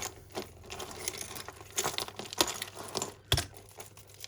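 Tangled costume jewellery necklaces being handled and pulled apart: irregular clicks and clacks of beads and chain, the sharpest about three seconds in.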